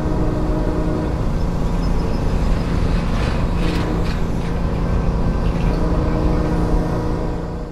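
Diesel locomotive and freight train running, a steady low engine drone with a few short clanks or squeaks about three to four seconds in, fading out near the end.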